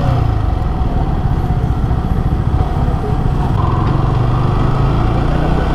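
Yamaha R15 V3's single-cylinder engine running steadily under way.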